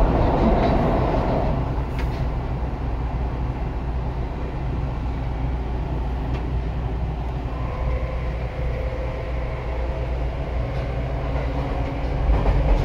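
Seibu 2000 series electric commuter train running, heard from inside a passenger car: a steady rumble of wheels and running gear with a faint hum of tones. There is one click about two seconds in, and the sound grows louder near the end.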